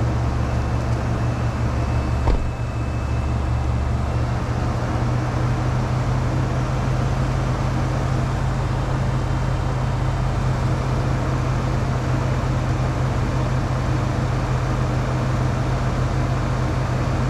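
Car engine idling steadily, with one sharp click about two seconds in.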